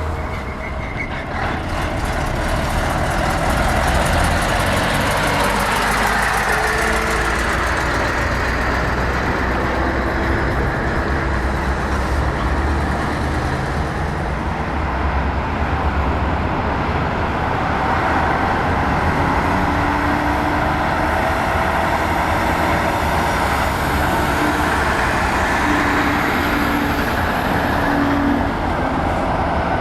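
Heavy diesel trucks driving past, engines and tyres running continuously, with the engine pitch slowly shifting as they go by.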